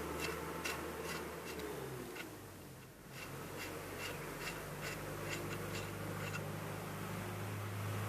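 Scattered light metallic clicks and clinks of cylinder-head bolts being handled and set in place on a single-cylinder diesel engine, over a steady low hum.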